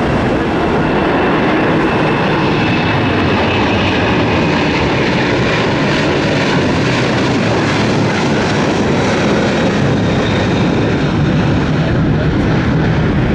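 Jet airliner's engines at takeoff power as it climbs out just after lifting off: a loud, steady noise with a faint high whine early on that fades.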